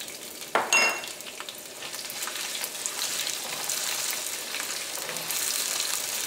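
Chopped garlic and ginger frying in hot oil in a wok with cumin, bay leaves and dried red chillies: a sizzle that grows louder from about two seconds in as the spatula stirs it, with small scraping clicks. A brief, ringing knock comes about half a second in.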